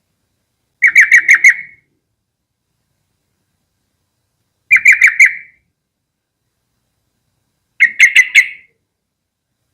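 Yellow-vented bulbul calling: three short phrases of four or five quick notes each, about a second long and a few seconds apart.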